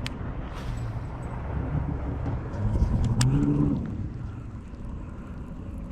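A motor engine rumbling low. It swells and rises in pitch about two and a half seconds in, then falls away, with a couple of sharp clicks.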